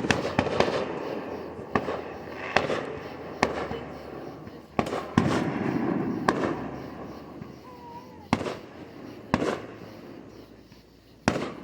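Fireworks going off: about a dozen sharp bangs at irregular intervals, each trailing off in a rumbling echo.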